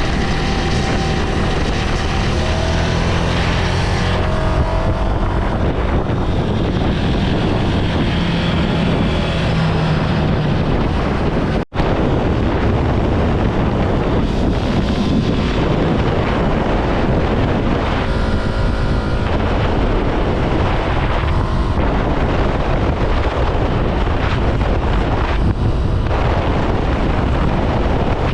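Ducati Scrambler Sixty2's 399 cc air-cooled L-twin running on the road, with wind noise on the microphone. The engine pitch shifts a little in the first few seconds. The sound drops out for a split second a little under halfway through.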